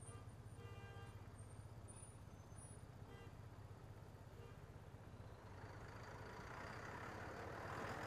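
Motorcycle engine idling with a low, steady beat in slow city traffic, with a few short, faint horn toots in the first half. From about halfway a bus pulls in close alongside, and its hiss and whine grow louder toward the end.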